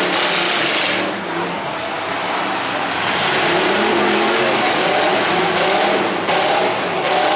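Demolition derby cars' engines running and revving, several at once, their pitch rising and falling, over a steady loud noise.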